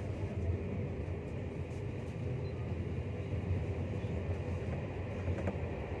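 Passenger train running, heard from inside the carriage: a steady low rumble of wheels on the track, with a few faint clicks.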